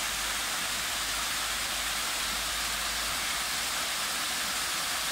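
Pond waterfall splashing: water tumbling over rocks into the pool, making a steady, even hiss.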